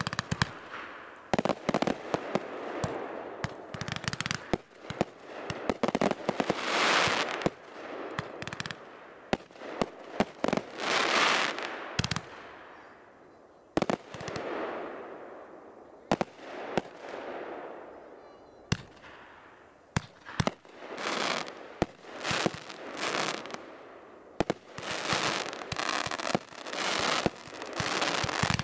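Aerial firework shells bursting in quick succession: many sharp bangs, with swells of crackling from crackling-star shells that build and fade between them.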